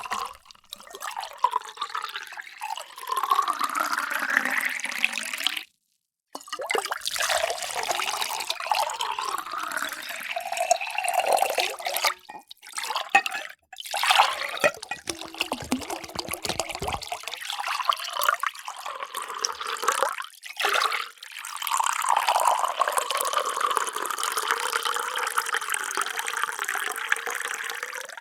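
Water poured into drinking vessels in several separate pours broken by short silences. In the first pour the tone climbs steadily as the vessel fills.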